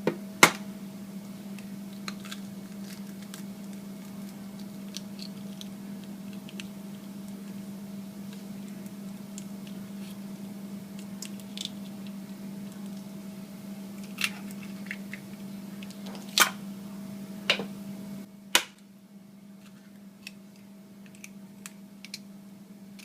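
Stand mixer's motor humming steadily, then switching off about 18 seconds in. Sharp clicks and taps come and go over the hum, clustered just before it stops.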